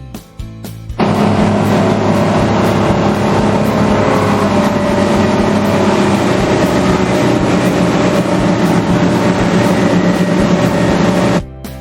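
Motorboat engine running steadily at speed with a loud rush of water and wind noise. It cuts in sharply about a second in and cuts off just before the end.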